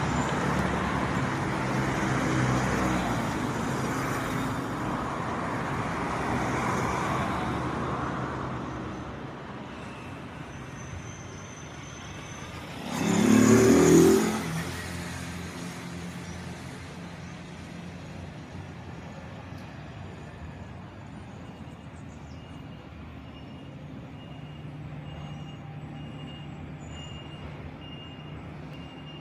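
Road traffic: motor vehicles running and passing, with one loud vehicle going by about halfway through. Near the end an evenly repeated high beep sounds, like a truck's reversing alarm.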